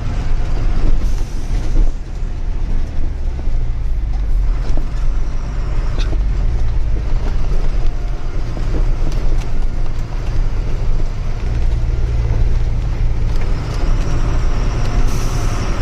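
Truck driving along with its diesel engine running as a steady low drone, with scattered knocks and rattles on a muddy, rough road.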